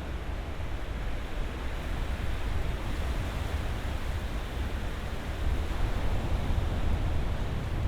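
Ocean surf washing in: a steady rushing noise over a deep rumble, swelling a little about two and a half seconds in and again after five seconds as waves break.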